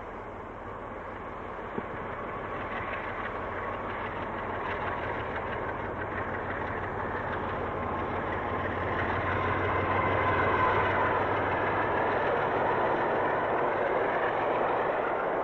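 New Zealand Rail DX-class diesel-electric locomotive hauling a freight train, its engine growing steadily louder as it approaches. A single sharp click about two seconds in.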